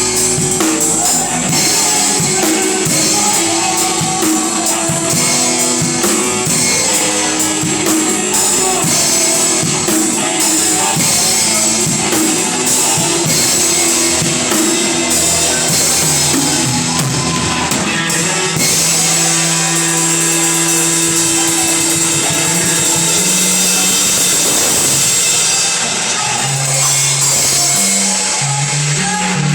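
Band music with a drum kit and electric guitar playing a steady rock-style beat; a little past the middle the drum hits fall away, leaving held chords over a moving bass line.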